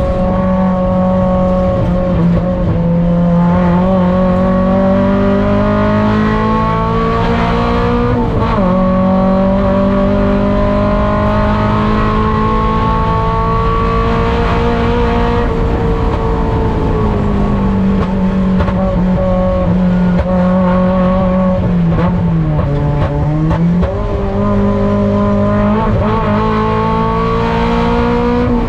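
Mazda Miata race car's four-cylinder engine heard from the cockpit, pulling hard and rising in pitch, dropping sharply at an upshift about eight seconds in, then climbing again. It falls off for braking later on, with quick blips on downshifts near the end.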